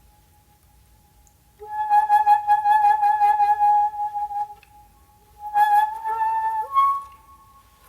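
Solo shakuhachi bamboo flute playing slow, breathy held notes. A faint note swells to a loud one with a rapid fluttering texture. After a pause a second note rises and steps up in pitch near the end, then fades.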